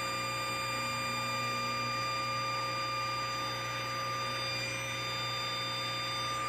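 Grizzly 5-horsepower cabinet table saw with a 12-inch blade running free at full speed after spinning up, a steady motor and blade whine with no load on it yet.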